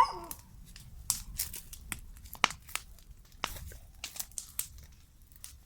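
Irregular crackling and crinkling: papers, plastic and other junk being handled and sorted by hand.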